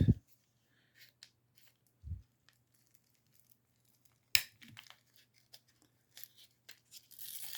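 Small handling clicks as a knife is used to cut open packaging, with a soft thump about two seconds in, one sharp click a little after four seconds, and tearing and crinkling of the packaging near the end.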